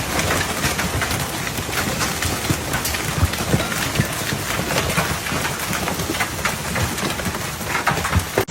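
Hail and rain pelting down in a storm: a dense, steady rush of noise dotted with many sharp individual impacts of stones striking hard surfaces.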